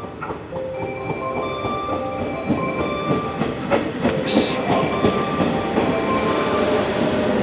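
Electric train moving along the platform, with wheel clicks over the rail joints and a short hiss about four seconds in, growing louder. A chiming melody of bell-like notes continues over it.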